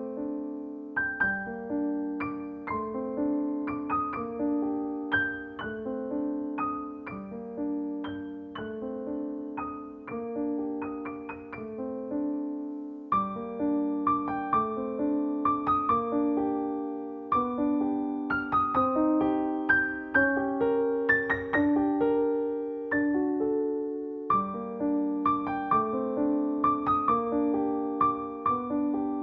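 Background music: a gentle, slow solo piano piece of sustained chords and melody notes that each start sharply and fade.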